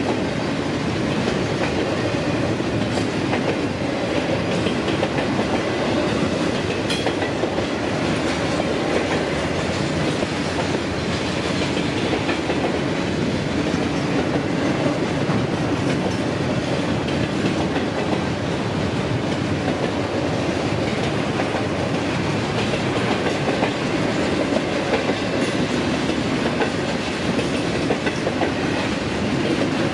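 Double-stack intermodal freight train rolling past at a grade crossing: a steady, unbroken run of wheel and car noise as the loaded well cars go by.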